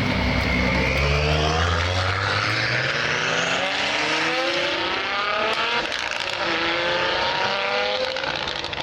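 A car engine revving hard, its pitch climbing in three long rises that drop back between them, as when a car pulls away through the gears.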